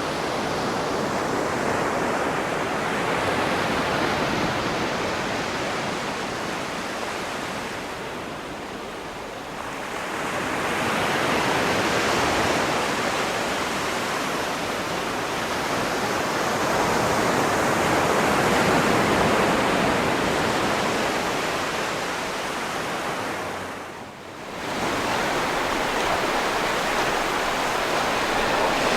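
Sea waves surging and washing onto a shore in a continuous rush that swells and eases over several seconds, with a brief sharp drop late on.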